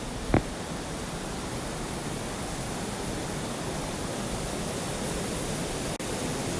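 Steady rush of flowing river water, an even noise with no pattern, with a single sharp knock just after the start.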